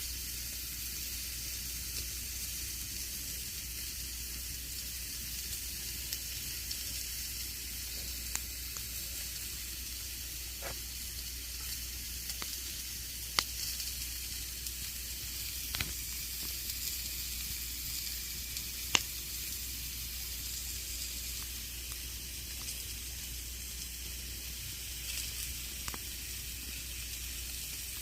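Campfire burning with a steady hiss and scattered small crackles; a few sharper pops stand out around the middle.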